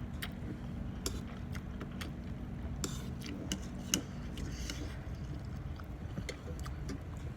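Close-up eating sounds: a person chewing food, with scattered small clicks and ticks and a soft wet smacking noise about halfway through, over a steady low background hum.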